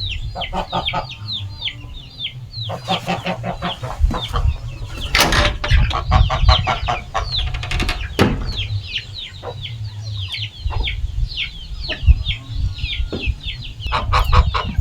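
A flock of chickens clucking, with a near-continuous stream of short, high, falling peeps and a few sharp knocks among them. The birds are calling for a morning feed that is later than usual.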